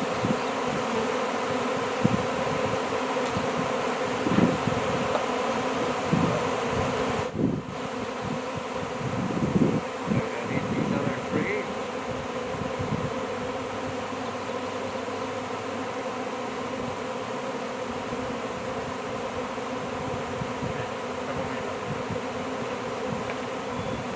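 A honey bee swarm buzzing: the steady, dense hum of many bees in flight, with a brief break about seven seconds in.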